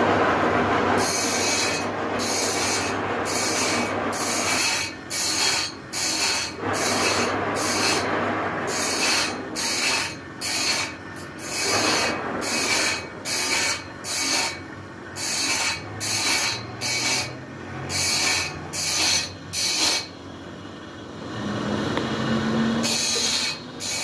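Rhythmic back-and-forth strokes of a hand tool rubbing on wood, such as a rasp, sandpaper or hand saw, about one and a half strokes a second. There is a short pause near the end, then the strokes resume.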